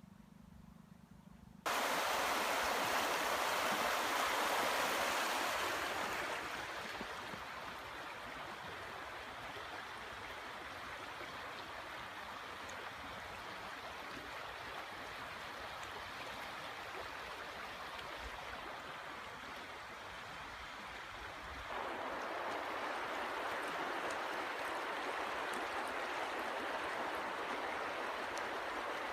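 River water rushing steadily. It starts suddenly about two seconds in, eases after a few seconds and grows louder again near the end.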